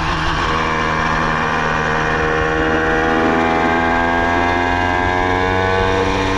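Minarelli vertical two-stroke scooter engine on a motorized bicycle running under way. Its note climbs slowly over a few seconds and then holds.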